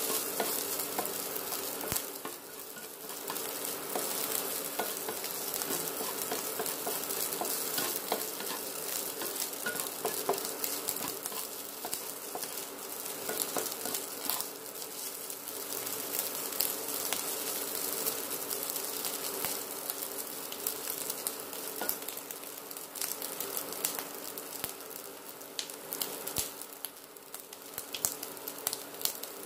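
Diced ham sizzling and crackling in a little oil in a nonstick frying pan, stirred now and then with a wooden spatula. A faint steady hum runs underneath.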